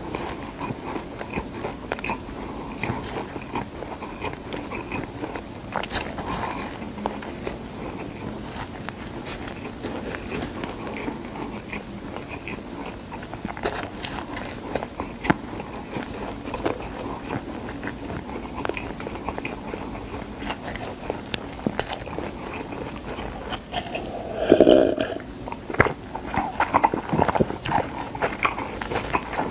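Close-up chewing and biting of dried gamtae seaweed sheets: a steady run of fine crackles and crisp clicks as the dry seaweed is crunched. A brief louder, lower sound comes about 24 seconds in.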